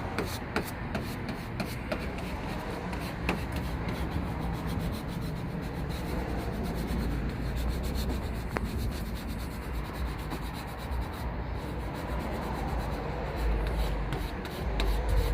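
Steady rubbing and scraping with many small clicks, as a vinyl graphic is rubbed down onto a car's body panel.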